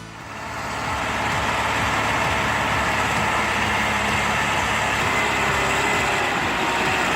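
Heavy vehicle engine running steadily, swelling in over the first second and then holding at a steady level.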